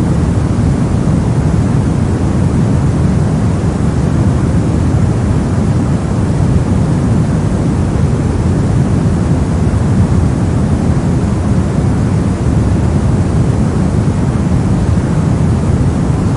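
Steady soft noise: a continuous, even rushing hiss with most of its weight in the low end and little treble, unchanging throughout.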